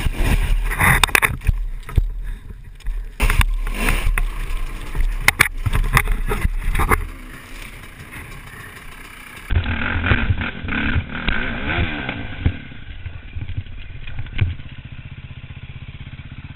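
Dirt bike engines revving hard and unevenly, rising and falling in pitch, with repeated knocks and clatter. About halfway through the sound cuts to another dirt bike revving.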